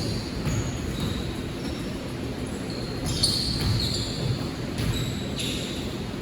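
Basketball game in a gym: a ball bouncing on the court and sneakers squeaking on the floor, several sharp thuds in the second half, over a low echoing hall rumble.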